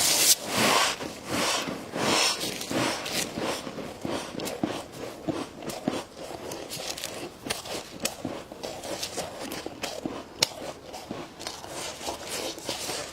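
Dry freezer frost being bitten and chewed up close: a few loud crunching bites in the first couple of seconds, then a steady run of quieter crackles and small crunches as it is chewed down.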